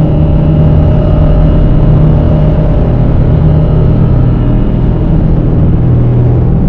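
Dark ambient drone and noise music: a loud, steady wall of low rumbling noise with several held tones layered over it, with no beat.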